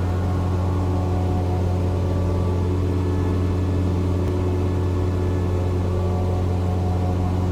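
Cessna 172's piston engine and propeller droning steadily in cruise, a low even hum with steady overtones.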